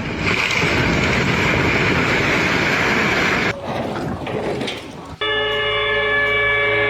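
A loud, rushing noise for about three and a half seconds, then a sustained horn of several tones sounding together that starts abruptly about five seconds in.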